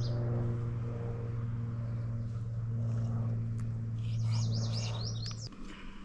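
Songbirds chirping in quick repeated phrases over a steady low hum, the loudest sound, which cuts off suddenly about five and a half seconds in.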